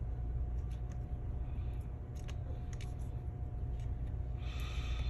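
Faint clicks and a brief scraping near the end from small hand tools prying at a MacBook Air's Wi-Fi antenna, which is held down with double-sided tape, over a steady low hum.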